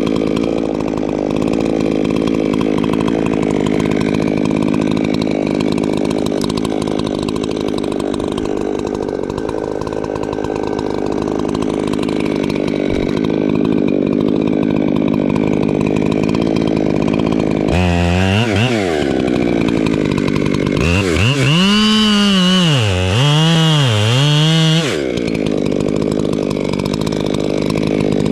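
Two-stroke Echo chainsaw running hard, then its engine pitch swings down about 18 s in and rises and falls three times between about 21 and 25 s as the throttle is worked.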